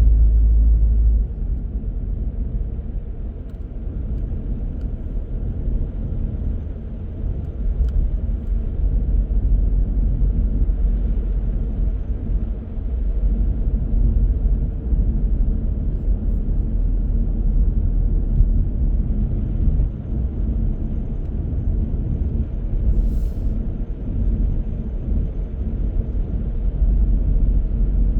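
Car driving along a road: steady low rumble of engine and tyre noise, dropping slightly in level about a second in.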